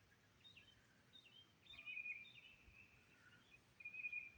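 Faint birdsong: a handful of short high chirps and a few longer high notes, with several pauses between them.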